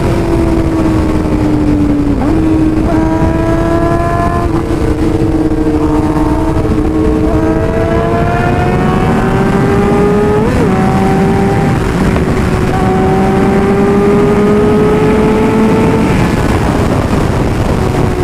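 Several sport motorcycle engines running at highway speed over heavy wind rush. Their overlapping notes slowly rise and fall, with a short rev blip about ten seconds in.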